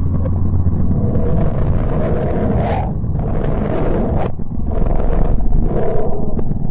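A spacecraft recording played back as sound: a steady low rumble overlaid with hissing surges that start and stop abruptly, one cutting off sharply about four seconds in.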